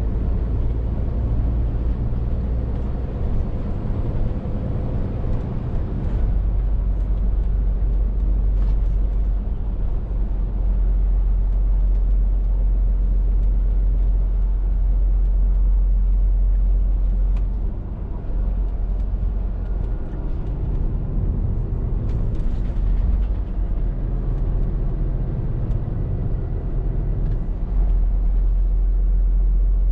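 Scania R450 lorry's 13-litre inline-six diesel running under way, with a low rumble and road noise. The engine note shifts a few times and dips briefly past the middle.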